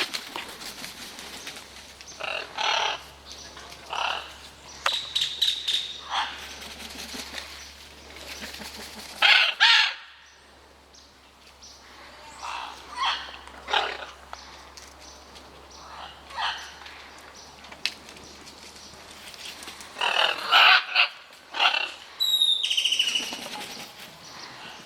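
Parrots squawking as they fight: loud calls in clusters with short pauses between them. The loudest bursts come about nine seconds in and again around twenty seconds in.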